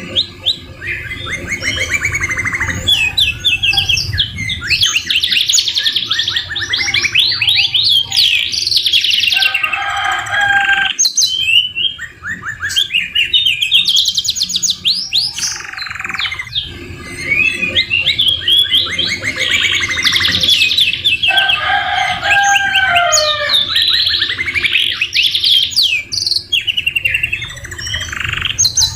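Domestic canaries singing long, rapid trilling rolls and chatter, a song style filled with phrases copied from the white-rumped shama. It breaks off only briefly, with a few slower, lower whistled glides mixed in.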